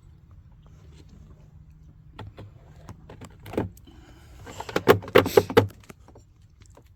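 Clicks and knocks of beehive frames and woodenware being handled, with a run of several sharp knocks about five seconds in.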